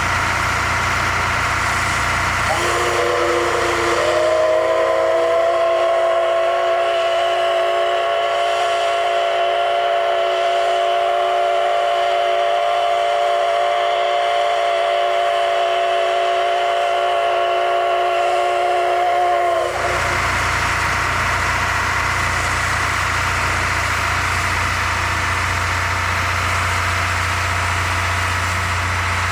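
Steam locomotive's whistle blowing one long chord of several tones. It slides up slightly as it opens a few seconds in, holds for about seventeen seconds, then cuts off. A steady rumble with a low hum from the running train lies under it before and after.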